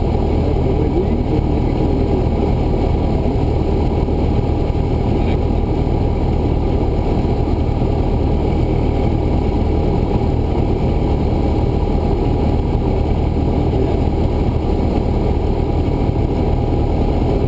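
Cessna 172's piston engine and propeller running at a steady power setting, a constant loud drone heard from inside the cabin.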